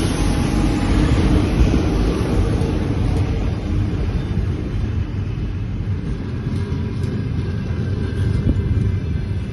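Passenger train hauled by a TEP70BS diesel locomotive rolling into the station: a steady low rumble of the train, easing off slightly near the end.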